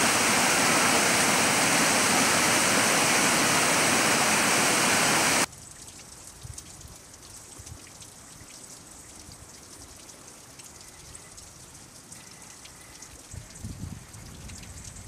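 Waterfall rushing loud and steady, cut off abruptly about five seconds in, giving way to a much quieter stretch of faint trickling and dripping water among the ice.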